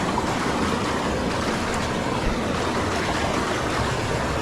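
Steady rushing water noise of heavy rain together with a flowing rainforest creek, even and unbroken throughout.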